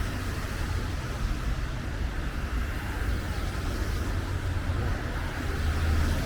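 Steady street traffic noise: a low rumble of passing cars, with tyre hiss on the wet road.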